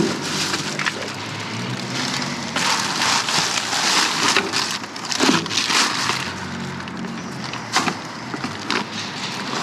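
Rummaging through dumpster trash: plastic bags and packaging rustling and crinkling as items are handled. The crinkling is heaviest in the middle, with a couple of sharp knocks.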